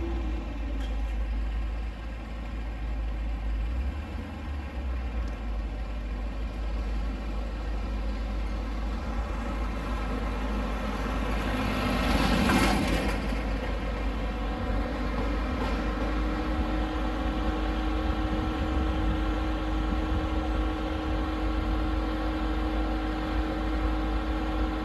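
A vehicle engine idling steadily with a low rumble. About twelve seconds in, a small flatbed truck drives past, swelling up and then fading.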